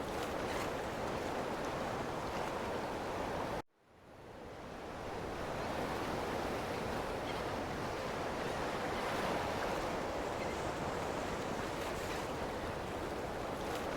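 Ocean surf: a steady wash of breaking waves. Just under four seconds in, it cuts out abruptly, then fades back in over a second or two.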